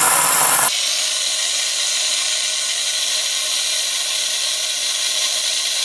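Bathroom sink faucet running water into the basin with the pop-up stopper closed, filling the sink to test the stopper's seal. A steady hiss that about a second in suddenly turns thinner and higher.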